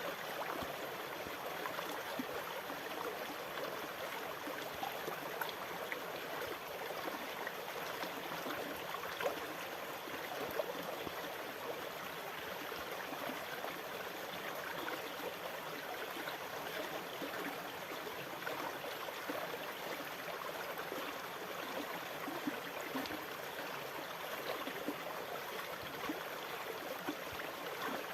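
Running water, steady and even, with many small splashes and gurgles scattered throughout.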